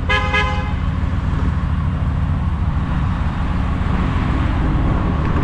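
Steady low rumble of a 2016 Shelby F-150's supercharged V8 idling, with a short buzzy tone at the very start.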